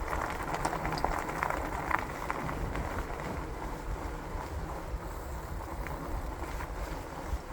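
Wind rushing over the microphone and the rumble of a fat-tired e-bike rolling over a bumpy trail, with scattered small clicks and rattles.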